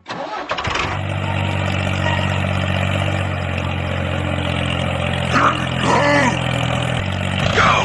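A mini tractor's small engine running at a steady speed, a constant droning hum. Short rising-and-falling calls cut across it about five and a half seconds in and again near the end.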